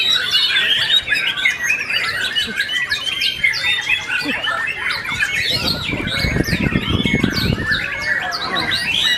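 Many white-rumped shamas singing at once, a dense chorus of overlapping rapid whistles and chirps. A low rumble rises under the song in the middle and fades again.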